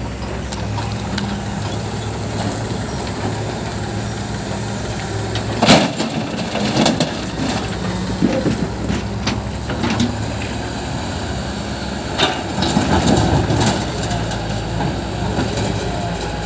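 JCB backhoe loader's diesel engine running steadily under load, with a series of sharp knocks and scraping crunches from about six seconds in and again around twelve to fourteen seconds, as the machine works.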